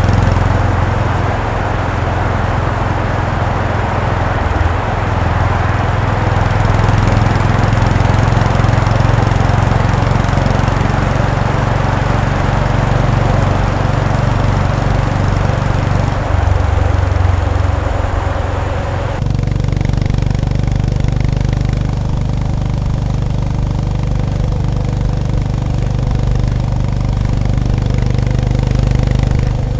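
Honda GB350S single-cylinder engine running while riding, under wind and road noise. About two-thirds of the way through the wind noise drops away suddenly and the engine settles to a steady idle.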